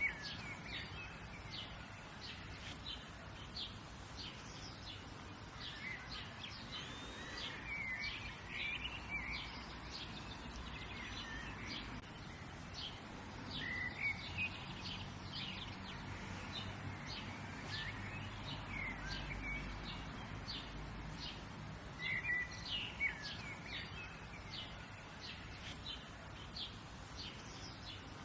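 Several wild birds chirping and calling, short high chirps throughout with brief livelier bursts of calls now and then, over a steady low background rumble.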